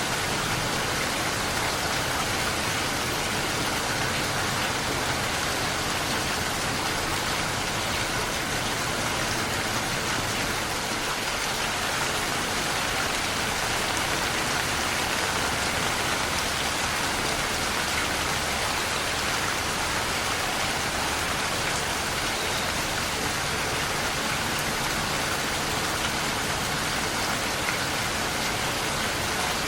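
Steady rain falling, an even hiss of raindrops on surfaces with no thunder.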